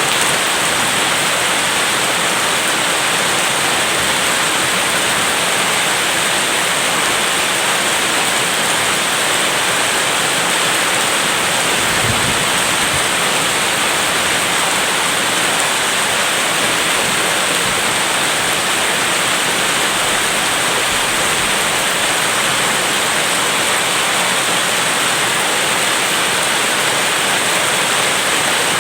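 Steady rain falling, an even dense hiss, with a brief low rumble about twelve seconds in.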